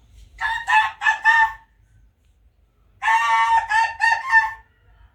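A woman imitating a rooster's cock-a-doodle-doo, twice: a short broken call about half a second in, then a longer one about three seconds in.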